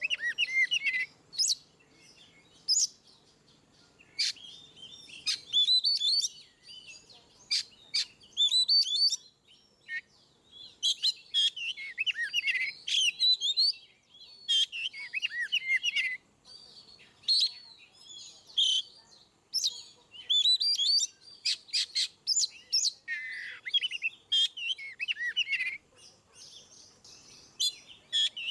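Oriental magpie-robin (kacer) singing its full, loud 'ngeplong' song. Rapid phrases of varied whistles, warbles and sharp chips come in bursts a second or two long, with short pauses between them.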